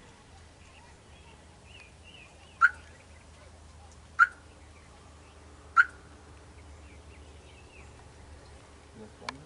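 Three loud, short bird calls, evenly spaced about a second and a half apart, over faint chirping of small birds and a low steady hum.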